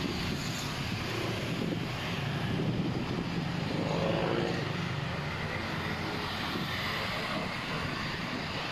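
A steady engine drone over a wash of outdoor noise, its pitch rising and falling briefly about halfway through.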